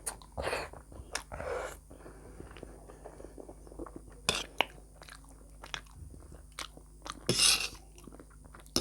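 A person chewing and crunching food, with many small wet mouth clicks and a few louder noisy bursts.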